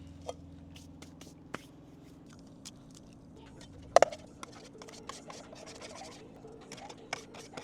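Handling noises of cooking prep: small scrapes, taps and clicks of utensils and food being moved, with one sharp knock about four seconds in. A low steady hum cuts out a little over two seconds in.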